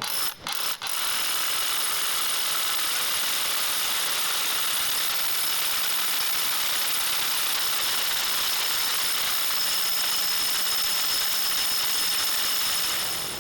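Makita XGT 40V rotary hammer with a brushless motor, started in a few short bursts and then running steadily and continuously.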